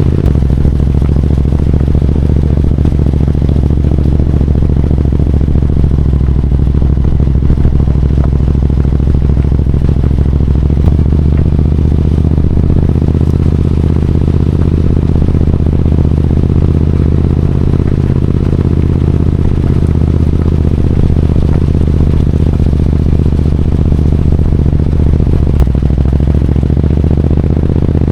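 Royal Enfield GT 650's 648 cc parallel-twin engine running at a steady engine speed, its exhaust note holding the same pitch throughout.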